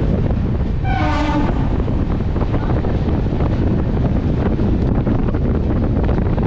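Wind buffeting the microphone at the open door of a moving train, over the steady rumble of the train running.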